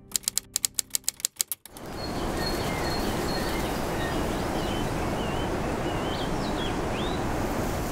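A rapid run of about ten sharp clicks, then a steady rushing outdoor noise with small birds chirping high over it.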